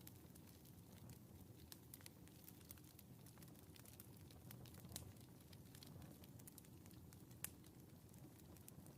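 Faint fireplace fire crackling: scattered small pops and ticks over a low steady rumble, with two sharper pops about five and seven and a half seconds in.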